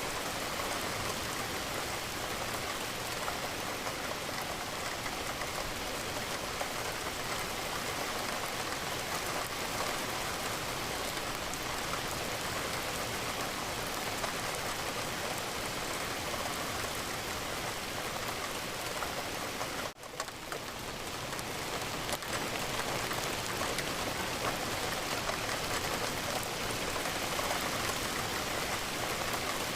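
Steady rain falling against a window, an even hiss of raindrops. About twenty seconds in it cuts out for an instant and swells back up.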